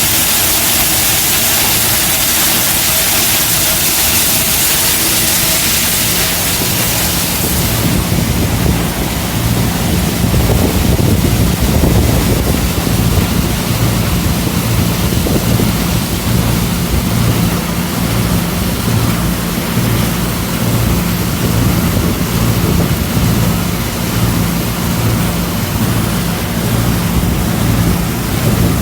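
Hammer crusher (stone crusher) running with a loud, dense rushing roar. About 8 seconds in the high hiss eases and a steady low hum with a pulsing rumble comes to the fore.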